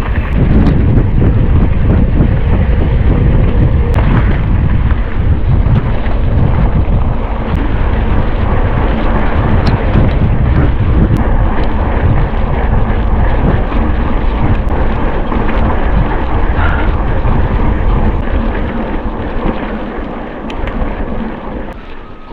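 Heavy wind buffeting the microphone of a mountain biker's camera while riding at speed, mixed with scattered knocks and rattles from the bike on rough ground. It eases off over the last few seconds.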